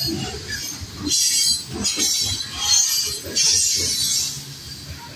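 Covered hopper cars of a Kansas City Southern grain train rolling past on the rails, wheels rumbling and knocking over the rail joints, with several bursts of high-pitched wheel squeal.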